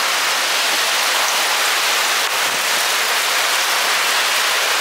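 Steady rain falling, an even hiss with no pauses: the first rain ahead of an approaching hurricane.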